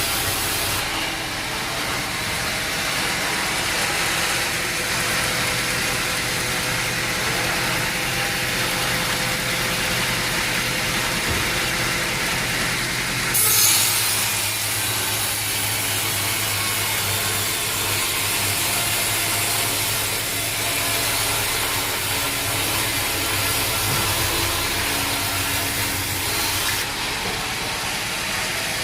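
Sawmill running: an engine hums steadily under the rasp of a saw blade cutting through a log, with a brief, sharp, loud burst about halfway through.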